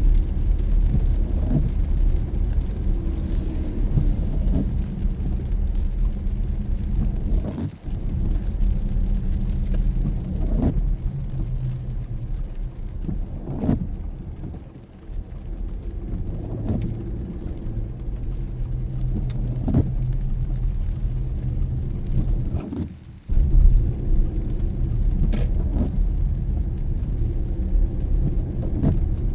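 Car driving on a wet road, heard from inside: a steady low road-and-engine rumble with a short sweep about every three seconds. Twice the rumble drops away for a moment.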